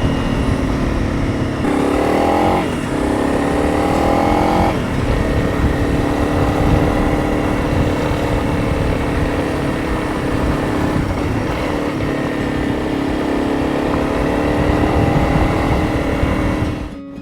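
Honda CRF300 Rally's single-cylinder four-stroke engine under way, rising in pitch twice between about two and five seconds in as it accelerates, then running at a steady speed. The sound drops away sharply at the very end.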